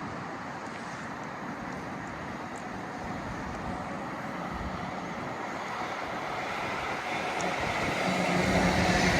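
Steady background rumble, then a train approaching: the sound grows louder over the last two seconds, and a steady low hum comes in near the end.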